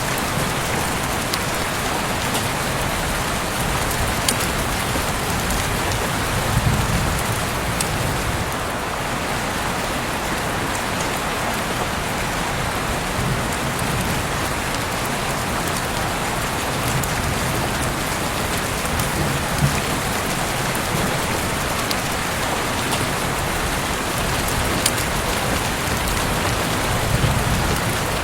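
Heavy rain pouring steadily: an even hiss with scattered sharp drop ticks and a few soft low rumbles.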